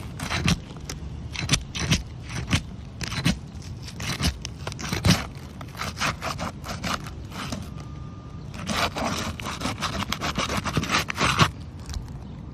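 Metal snake tool scraping and prying under asphalt shingles to break the sealant strip holding a shingle down, in short separate strokes about once a second, then a quick run of many strokes about nine seconds in.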